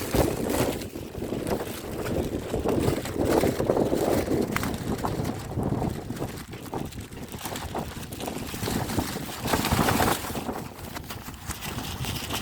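Gusting wind of a desert sandstorm buffeting the microphone, a rough rushing noise that swells and eases, with strong gusts at the start, around four seconds in and again near the end.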